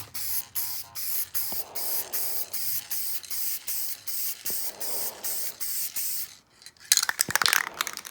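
Short, rapid bursts of spraying, about three a second, hissing high in pitch. Near the end comes a louder burst of clattering.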